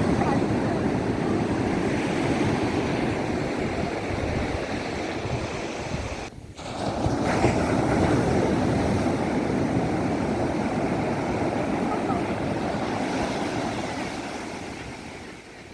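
Sea surf washing on the shore, a steady rushing with wind buffeting the microphone. It breaks off briefly a little over six seconds in, then resumes and fades near the end.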